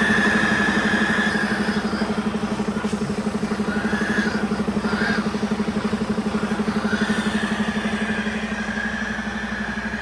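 2011 International MaxxForce 15 inline-six diesel engine (15.2 L) idling steadily with an even, rapid pulse, and a high whine that fades in and out.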